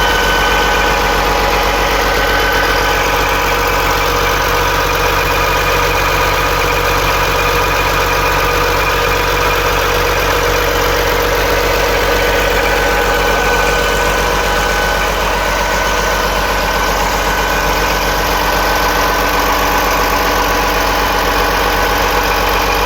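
Restored Yanmar engine running steadily at idle, loud and even throughout.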